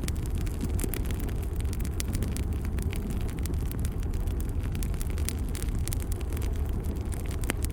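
Fire burning in a fireplace: a steady low rumble of the flames with scattered sharp crackles and pops, one of the strongest near the end.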